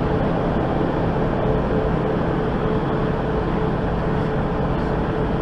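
Steady engine and road noise of a vehicle driving, with a constant hum, as picked up by a dashcam.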